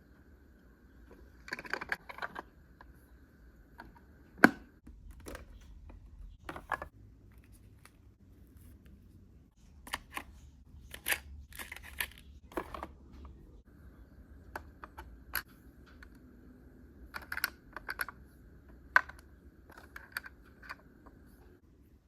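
Light clicks, taps and small knocks of little hard objects being handled and set down, irregular and spaced out, with a sharp tap about four seconds in and another near the end. A faint steady high tone sounds under the first few seconds and again through the second half.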